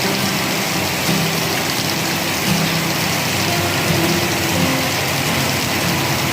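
Steady rain falling, an even dense hiss, with a low wavering hum underneath.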